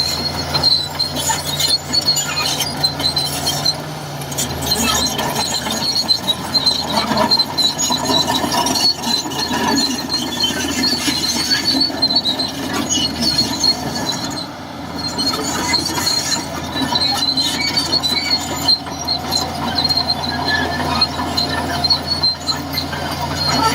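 Shantui DH17C2 crawler bulldozer working: its diesel engine runs steadily under the squeal and irregular clanking of its steel tracks.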